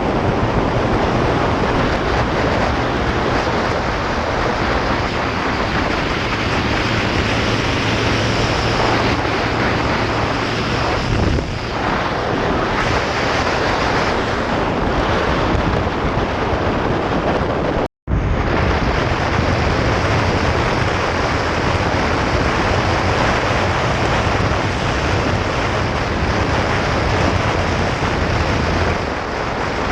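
Steady wind buffeting the microphone of a motorcycle riding at road speed, with the engine's low hum underneath. The sound drops out completely for an instant about eighteen seconds in.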